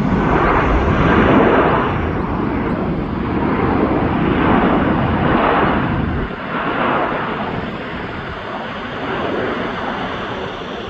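Jet airliner engines, a loud rushing noise with a deep low end; about six seconds in the low end drops away and the noise slowly eases.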